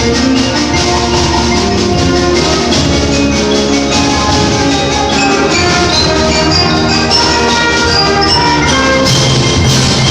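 Eighth-grade concert band playing, winds holding and changing notes over mallet percussion and drums, with sharper percussion hits near the end.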